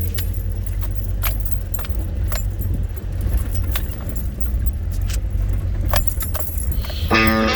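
A steady low rumble with scattered light jingling clicks, about one a second. Guitar music comes in near the end.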